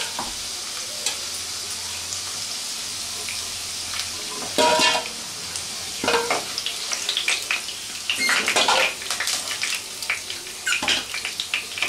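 Pieces of elephant foot yam sizzling in hot oil in a nonstick kadai, with a steel spoon scraping and clinking against the pan in several short clusters as the fried pieces are lifted out.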